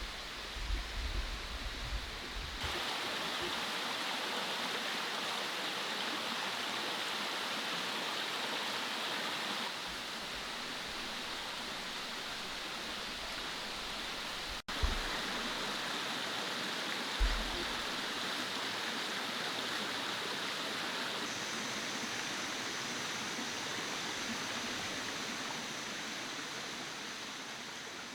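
Mountain stream flowing steadily over rocks, with a few low bumps in the first couple of seconds and another one past the middle. A faint steady high tone joins about two-thirds of the way through, and the sound fades toward the end.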